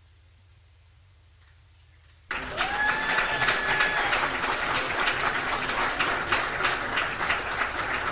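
A faint low hum, then a little over two seconds in an audience suddenly breaks into loud applause, dense clapping with a held cheer just after it starts.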